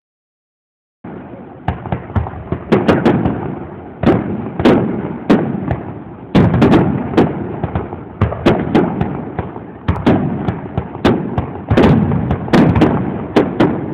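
Aerial fireworks going off in a rapid string of sharp bangs, each trailing off in a rumbling echo, starting about a second in.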